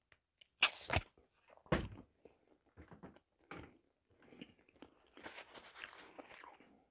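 A person chewing food close to a lapel microphone, with wet mouth noises and two sharper smacks in the first two seconds. A soft hissing rustle comes near the end.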